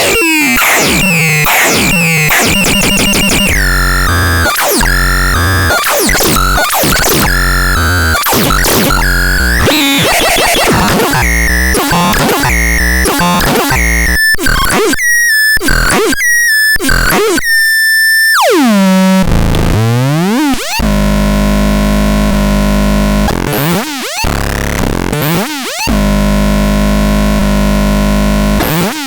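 Electronic synthesizer being played in a sound demo: harsh, noisy tones with rapid pitch sweeps and quickly stepping notes, then a held high tone that breaks off. A steep falling glide leads into a loud low buzzing drone, cut by a few brief gaps.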